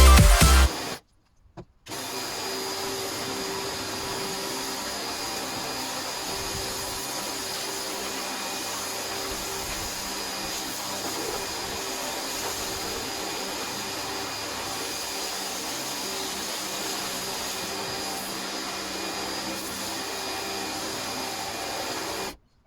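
A small electric motor running steadily, a constant hum with hiss, starting up about two seconds in after a brief silence.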